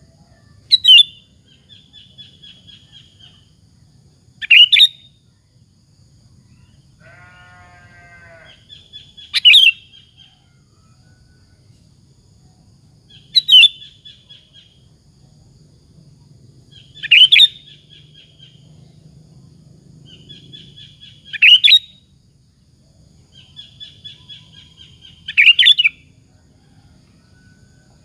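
Sooty-headed bulbul (kutilang) singing: a loud, sharp call about every four seconds, seven in all, with softer chattering notes between them. A single lower call with a buzzy, stacked tone comes about seven seconds in.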